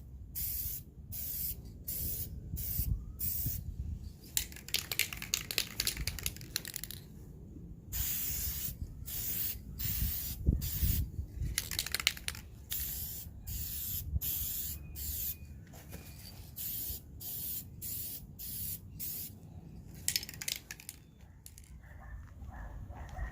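Aerosol can of VHT tint spray hissing in many short bursts, with a few longer passes of a second or two, as coats of tint are sprayed onto a tail-light lens.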